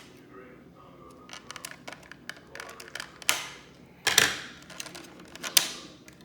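Plastic toy packaging being handled: a run of small clicks and crinkles, with three louder crackling snaps in the second half.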